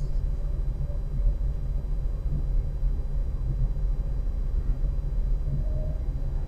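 Steady low rumble of a car under way, its engine and tyre noise heard from inside the cabin.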